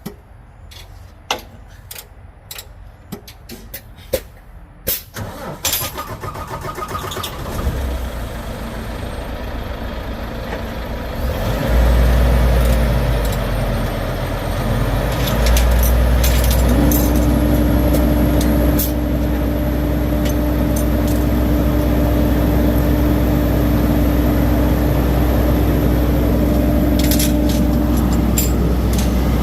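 A 2018 Volvo VNL truck's diesel engine starts about a dozen seconds in and settles into a loud, steady idle. A steady tone joins the engine a few seconds later. A few clicks and knocks come before the start.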